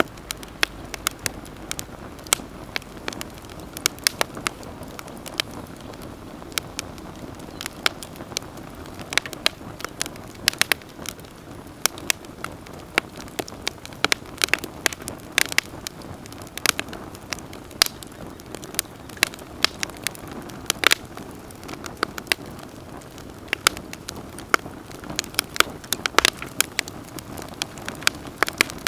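Wood campfire burning: frequent sharp, irregular pops and crackles over a steady hiss of the flames.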